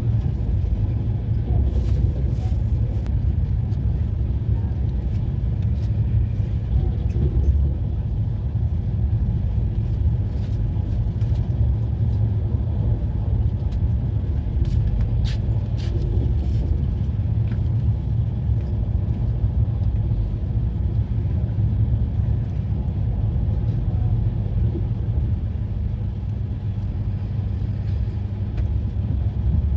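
Passenger train running along the track: a steady low rumble with a few scattered sharp clicks and knocks.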